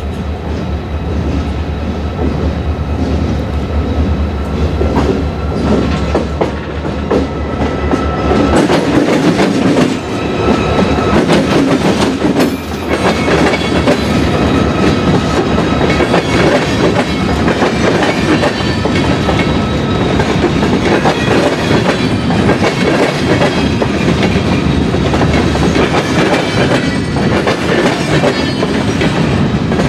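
A train passing on the rails, its wheels clicking steadily over the track. A low drone, likely the locomotive's engine, is heard for the first eight seconds or so and then drops away, leaving the clatter of the cars.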